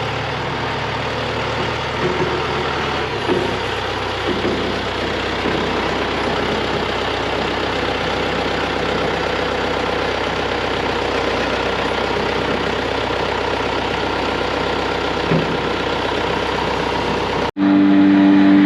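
Grain dryer running empty with its burner off: a loud, steady mechanical noise from the dryer's blower fan and drag conveyor. About a second before the end it breaks off abruptly into a louder, steadier hum with a strong low tone.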